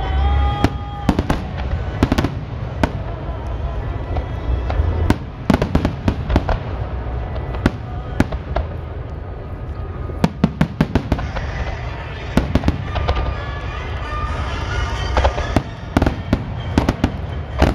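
Aerial fireworks shells bursting in a dense run of sharp bangs and crackling, over a steady low rumble.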